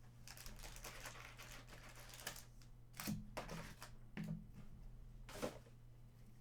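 Faint handling noise of trading cards at a table: soft rustling, then a few sharp taps about three, four and five and a half seconds in.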